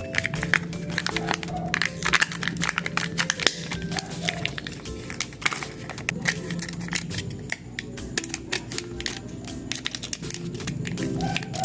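Candy and chocolate wrappers crinkling and tearing as they are opened, a dense, irregular run of crackles, over background music.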